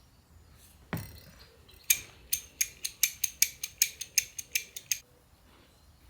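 Metal parts of a Land Rover Series gearbox mainshaft being worked during assembly: one knock, then a rapid run of about fifteen sharp metallic clicks, about five a second, stopping abruptly.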